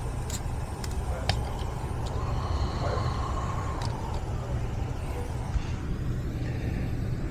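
Air-conditioning system running in cooling mode, a steady low hum, with a few light clicks and taps over it.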